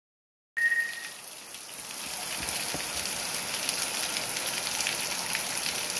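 Heavy rain pouring down, a steady dense hiss full of small drop patters, which cuts in suddenly about half a second in with a brief high tone at its very start.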